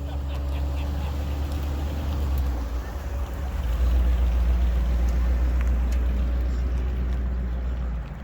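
A car engine rumbling steadily as it rolls past, louder in the middle and dropping away sharply near the end.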